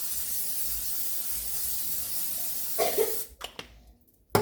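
Aerosol cooking spray hissing steadily onto the pancake pan for about three seconds, then cutting off. A short cough comes right at the end.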